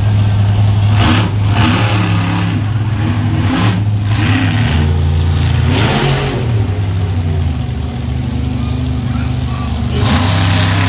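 Monster truck's big engine running and revving, its pitch rising and falling around the middle, with several short bursts of louder, rougher noise.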